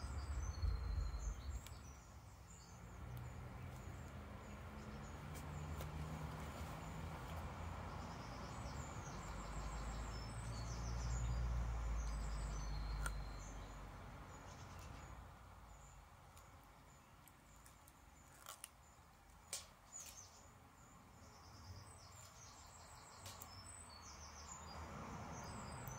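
Small birds chirping and singing in the background, with a low rumble through the first half and a few sharp clicks after the middle.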